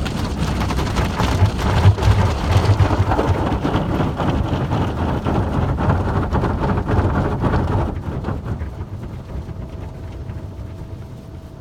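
Automatic car wash spraying water onto the car, a dense drumming rush heard from inside the cabin; it eases off about eight seconds in.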